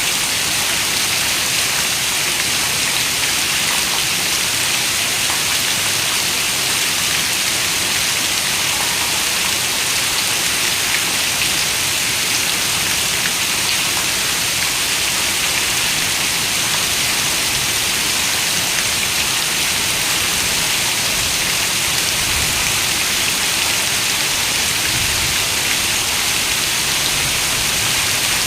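Steady rain: an even, unbroken hiss of falling drops, brightest in the high range, with no pauses or swells.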